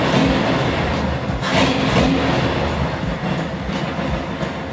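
1976 Jeep CJ7 engine running with its freshly rebuilt carburetor, the throttle opened by hand at the linkage. It surges a couple of times around a second and a half in, then settles lower.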